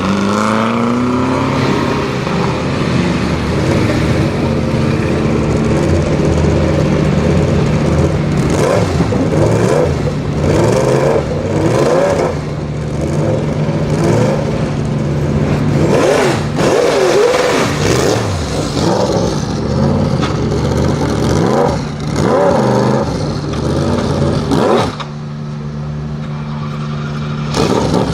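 Sauber Mercedes C9's turbocharged M119 5.0-litre V8 idling and being blipped, the revs rising and falling sharply again and again. It settles back to a steady idle near the end.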